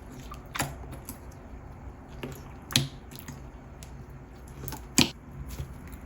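Clear slime with jelly cubes being pressed and played with, making sharp, sticky clicks and pops, the three loudest about half a second in, near three seconds and near five seconds, with softer clicks between.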